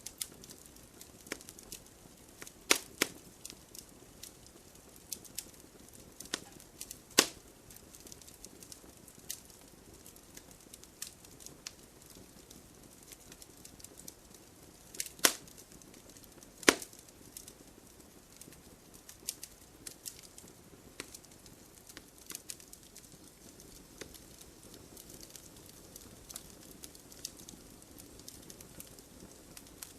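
Wood fire burning in an open fireplace: a soft steady hiss with irregular crackles and sharp pops of burning logs, a few loud snaps standing out.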